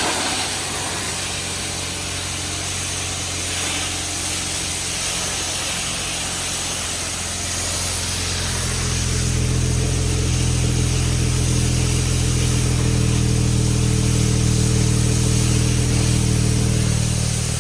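2007 BMW 335i's twin-turbo inline-six idling steadily, heard from the exhaust at the back of the car, growing somewhat louder and fuller about halfway through.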